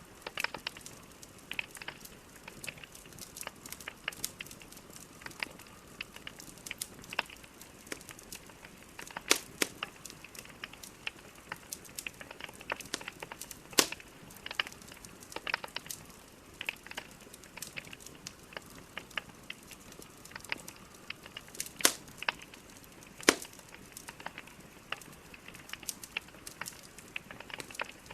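Burning logs crackling in a fireplace: a steady fire hiss with irregular sharp pops and snaps, a few louder cracks among them.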